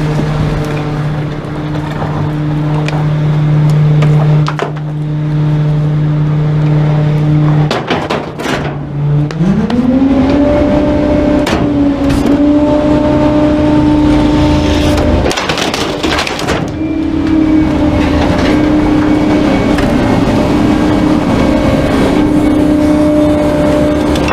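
Garbage truck's diesel engine running steadily at low speed, then revving up quickly about nine seconds in and holding at a higher, steady speed, with scattered knocks and cracks over it.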